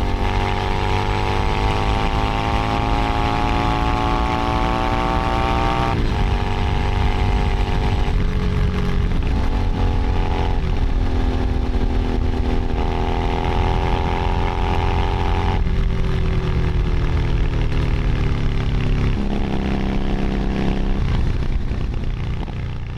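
Keeway SCR 250V's two-cylinder V engine running through an aftermarket racing exhaust while riding. The engine note climbs slowly over the first six seconds, then changes pitch abruptly several times as the rider shifts gears, dropping noticeably about sixteen seconds in, and fades out at the very end.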